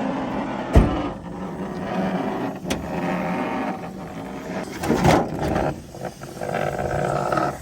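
Gargling noise from the stub truck's overheated eight-cylinder engine, uneven and without a steady running tone. A sharp knock comes about a second in, and a louder surge comes about five seconds in. It is the sign of an engine in distress after a full-throttle run, leaking oil.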